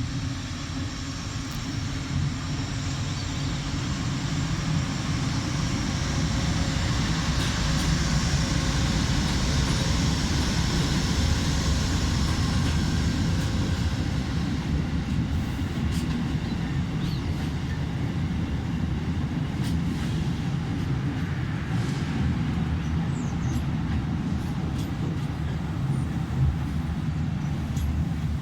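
Amtrak passenger train led by two GE Genesis diesel locomotives running past: a steady rumble of engines and wheels on the rails, swelling a little about a third of the way in and then holding.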